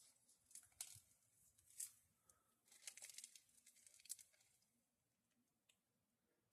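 Near silence broken by faint scattered clicks and rustles of handling, a few single ticks and a short cluster of them in the first half, then almost nothing.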